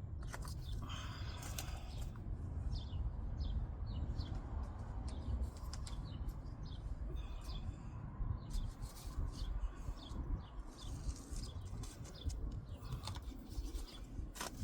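Seed planting outdoors: many short, crisp rustles and scratches, as of hands and a tool working soil, over a steady low rumble.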